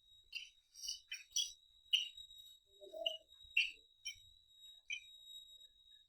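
Close-up mouth sounds of eating rice and duck: wet chewing and lip-smacking clicks about twice a second, with one softer lower gulp or squelch about halfway through. A steady high-pitched electronic whine runs underneath.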